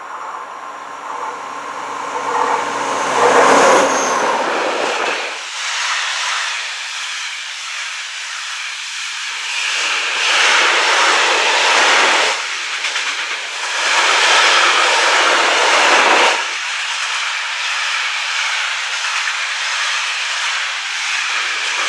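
A Vossloh G 2000 BB diesel-hydraulic locomotive passing with a block train of open freight wagons. It is loudest about four seconds in, then the long train of wagons rolls by with a steady rush and clatter of wheels on rail, swelling louder twice as the wagons go past.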